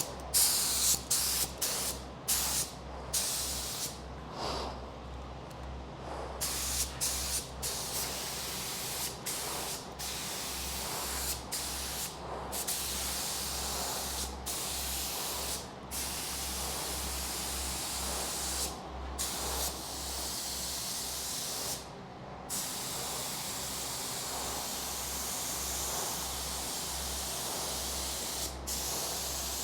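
Compressed-air spray gun hissing as it sprays epoxy primer onto a truck frame, in passes broken by many brief pauses where the trigger is let go. A steady low hum runs underneath.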